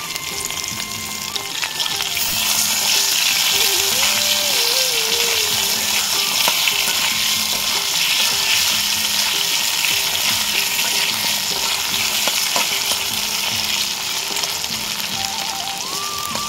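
Potato wedges frying in hot oil in a wok, a steady sizzle that swells about two seconds in, while a metal spatula stirs and turns them.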